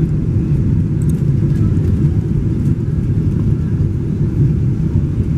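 Steady low rumble of airliner cabin noise, the engines and airflow heard from inside the plane.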